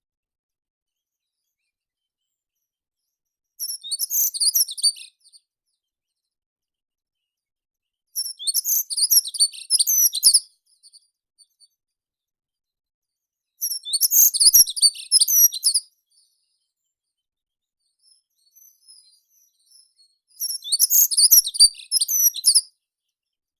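A meadow songbird singing short, rapid, high-pitched phrases, four times, several seconds apart.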